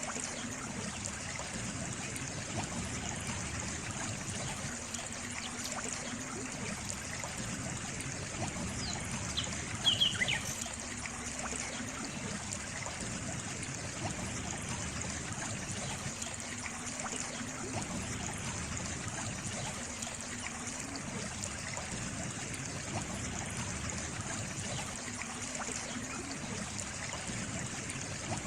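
Water trickling and running steadily like a small stream. About ten seconds in, a brief burst of a few short, high-pitched sounds stands out above it.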